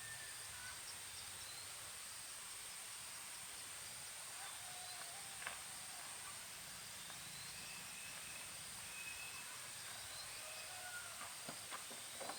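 Faint countryside ambience: a steady high-pitched insect drone with scattered short chirps, and a few sharp clicks near the end.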